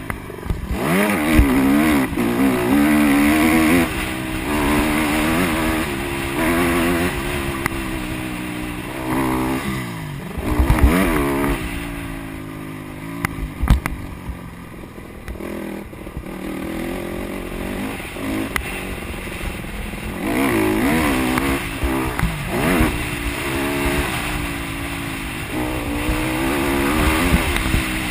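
Honda CRF150R motocross bike's single-cylinder four-stroke engine revving up and down through the gears, fading in the middle and coming back louder in the last third.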